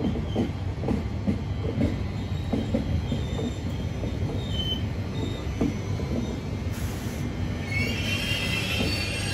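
SNCF Regio 2N double-deck electric regional train rolling slowly into the platform: a steady low rumble with irregular knocks from the wheels and short thin squeals. From about eight seconds in, a cluster of high metallic wheel squeals builds as the train slows to a stop.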